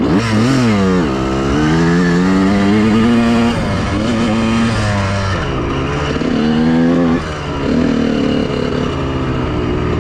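Honda CR125R's single-cylinder two-stroke engine under way, revving up and dropping back several times as the throttle is worked.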